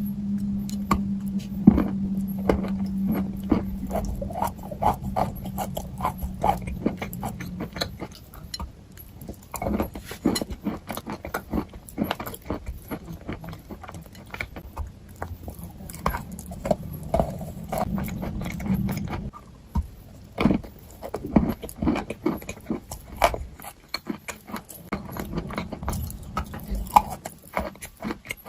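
Close-miked ASMR sounds: a dense, irregular run of small clicks and crackles. A steady low hum sits under them for the first several seconds and again for a few seconds past the middle.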